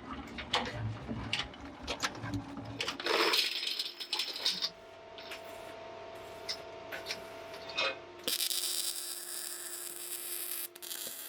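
Metalworking workshop sounds: scattered metal clicks and knocks, a short hiss about three seconds in, then a steady machine hum and a longer hiss from about eight seconds to near the end.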